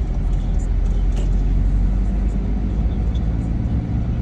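Car driving on a snowy road: a steady, low rumble of tyres and engine.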